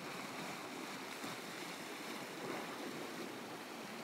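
Sea water washing and lapping against shoreline rocks, a steady wash without pause.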